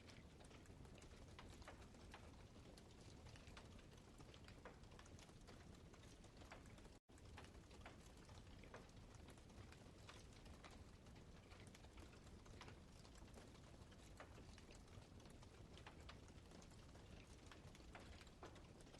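Wood campfire burning quietly, with frequent irregular crackles and small pops over a low steady rumble. The sound cuts out for an instant about seven seconds in.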